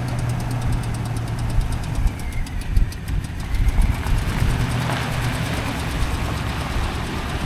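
2012 Dodge Ram 2500 service truck's engine idling steadily.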